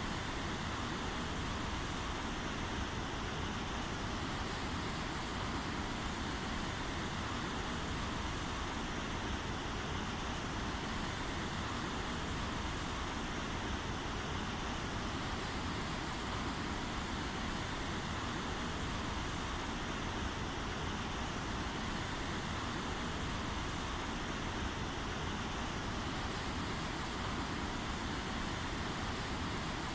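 Steady rain falling, an even hiss without gaps or changes.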